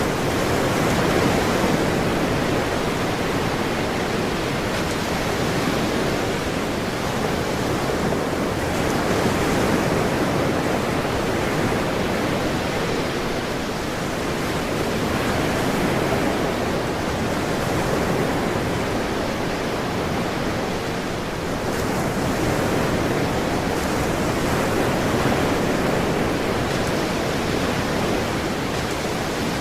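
Ocean surf washing in as a steady hiss of water noise, swelling and easing gently every several seconds.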